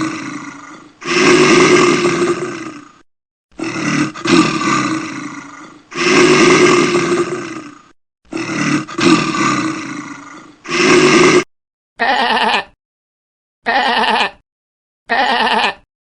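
Loud animal calls: the same long, rough call sequence is heard three times, then three short pitched calls, each under a second, follow near the end.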